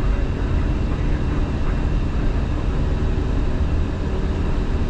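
Steady flight-deck noise of an Airbus A350-900 in its climb after takeoff: an even rumble of airflow and engines, heaviest at the low end, with a few faint steady whining tones.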